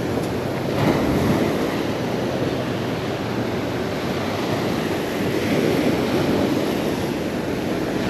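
Surf washing onto a beach, with wind buffeting the microphone: a steady rushing noise.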